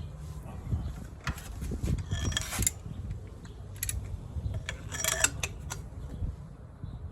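Metal hand tools clicking and scraping as a half-inch drive socket with a leverage pipe is worked onto the serpentine belt tensioner. Scattered clicks, with two longer metallic rasps about two seconds and five seconds in.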